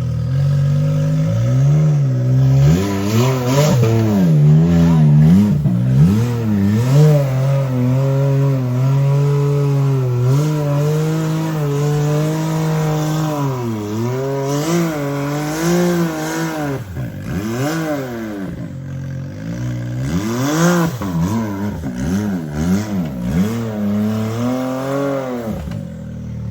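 Side-by-side UTV engine revving up and down again and again in short bursts under load on a rock crawl, with a few knocks over it.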